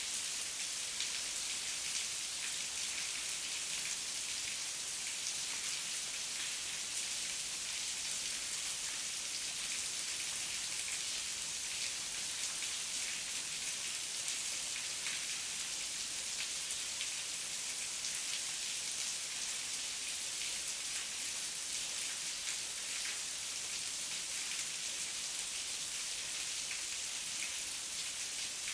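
Heavy rain falling steadily, a dense even hiss with many fine drop ticks and no thunder.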